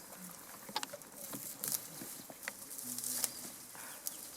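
Scattered snaps and rustles of leaves and stems in forest undergrowth, a series of short sharp cracks over a soft hiss.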